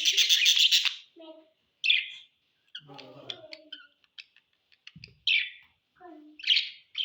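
Pet budgerigars chirping and chattering: a loud burst of chatter in the first second, then scattered short high chirps, with louder calls about two, five and six and a half seconds in.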